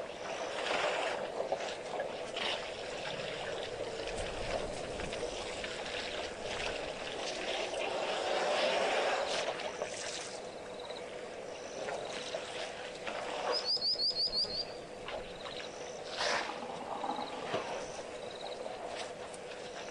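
Outdoor waterhole ambience: a steady background hiss with a faint low hum, and small birds chirping here and there, including a quick trill of about ten high notes about fourteen seconds in.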